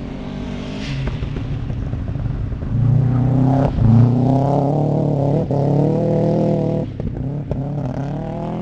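Small four-cylinder car engine driven hard on an autocross run. The revs climb and drop back several times as it shifts or lifts, with a few sharp clicks.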